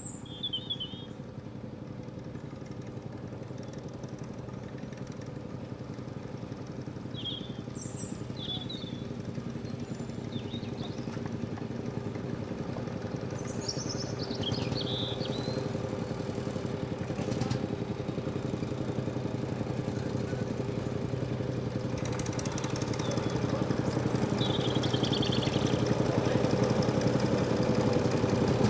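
A tractor engine running steadily and growing gradually louder as it approaches, with birds chirping over it.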